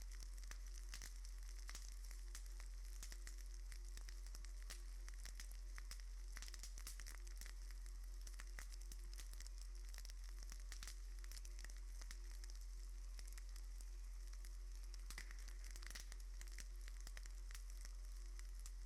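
Faint steady crackling and hiss, with many small irregular clicks over a constant low hum.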